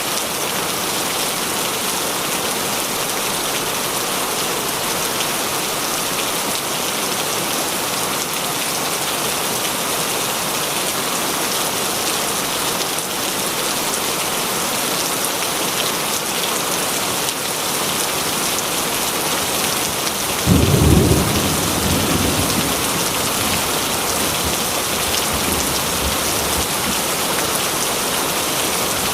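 Heavy rain falling steadily as an even hiss, with a short, deep roll of thunder about twenty seconds in that dies away over a couple of seconds.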